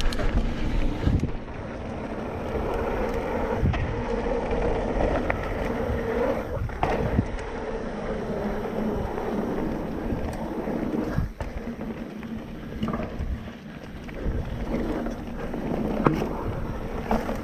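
Mountain bike riding fast along a dirt trail: a steady rush of tyres and wind on the microphone, broken by short knocks and rattles as the bike hits bumps.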